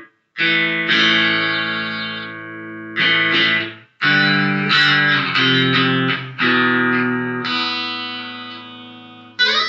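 Electric guitar played through a Positive Grid Spark amp: a slow rock riff of chords struck and left to ring for a second or more before the next hit.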